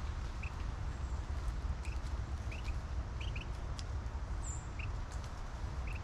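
Small birds giving short chip calls, about one every second, with a single thin high falling note about four and a half seconds in. Under them runs a steady low rumble, with faint scattered ticks.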